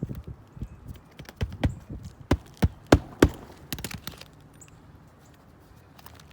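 Hammer knocks on an asphalt shingle roof during a shingle repair: irregular light taps, then four hard strikes about a third of a second apart a little after two seconds in, and a few lighter taps after them, consistent with nailing down a replacement shingle.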